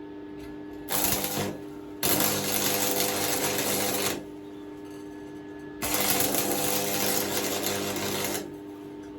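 Stick (arc) welder burning a rod on thin steel in three bursts of crackling: a short one about a second in, then two runs of about two seconds each. A steady hum carries on between them. The steel is thin enough that the arc is blowing straight through it.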